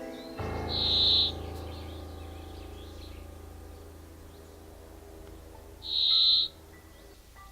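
A bird calling: a short, high note about a second in and again near the end, over a soft music chord that slowly fades.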